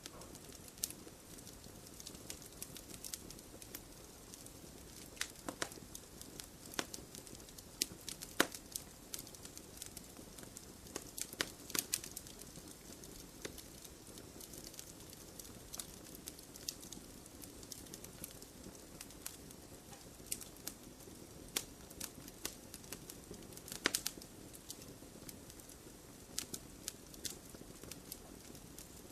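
Campfire burning in a stone fire pit: a steady soft rustle of flames with irregular sharp pops and crackles from the burning wood, a few louder snaps among them.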